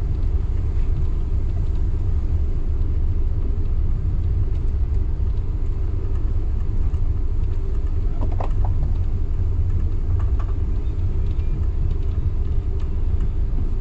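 Moving train running along the line, a steady low rumble from the wheels and running gear, with a few brief faint higher squeaks about eight and ten seconds in.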